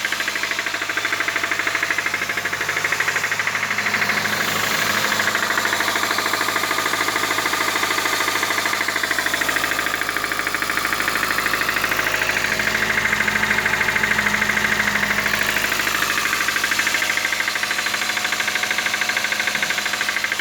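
Petrol engine running steadily with a fast, even knocking from inside it, the sound of an engine with knocking valves.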